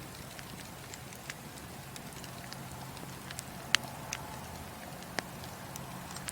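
Wood fire crackling, with scattered small snaps and a couple of sharper pops, the loudest about halfway through, over a steady low hiss.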